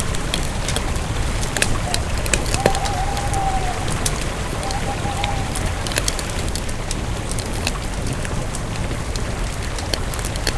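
Campfire burning with a steady hiss and frequent sharp crackles and pops of the wood. A faint thin whistling tone comes and goes a few times in the first half.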